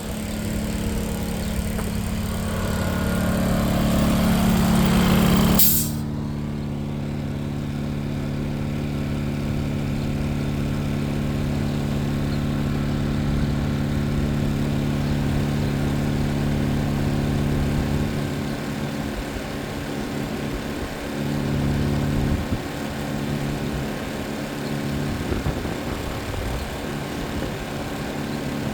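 Air spray gun hissing as a thin coat of vinyl colour goes onto the seat, building in strength and then cut off sharply about six seconds in. A steady motor hum continues underneath throughout.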